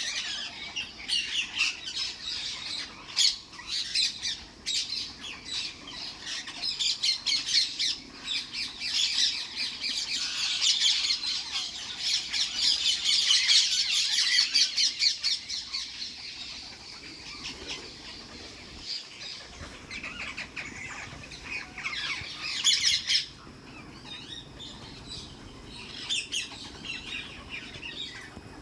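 Several pet parrots chattering and squawking, a dense run of rapid chirps and squawks that is busiest mid-way, thins out and flares up again briefly later on.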